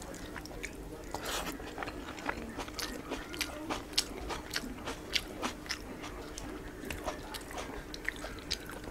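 A person chewing a mouthful of rice and curry eaten by hand, with many quick, irregular wet mouth clicks.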